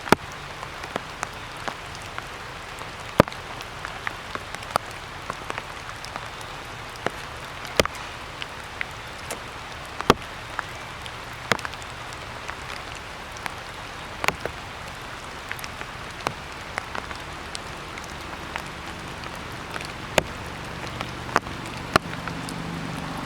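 Raindrops dripping from wet trees after rain: scattered, irregular sharp taps over a steady soft hiss.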